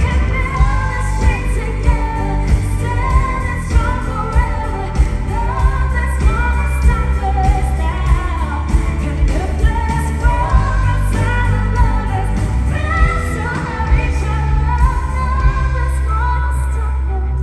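Female vocals singing a pop ballad over backing music with a steady beat.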